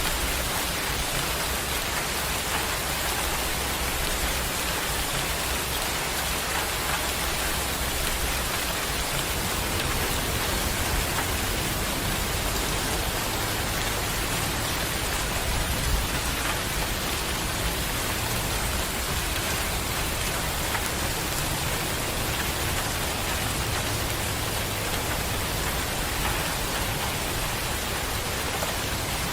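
Steady heavy rain falling as an even, dense hiss, with a low rumble of distant thunder underneath that swells a little around the middle.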